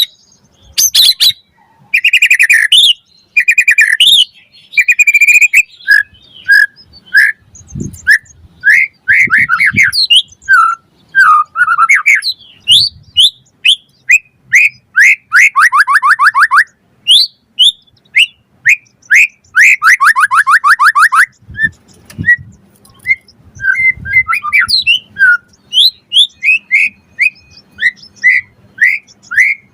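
White-rumped shama (murai batu) singing a loud, varied song of separate whistled notes and slurred phrases, broken by fast rattling trills twice around the middle.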